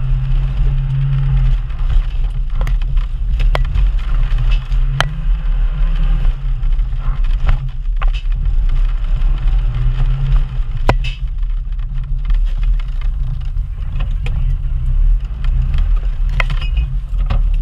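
Off-road 4x4's engine running under the camera at low revs, its pitch rising and falling as it drives over rough ground. There are sharp knocks every few seconds.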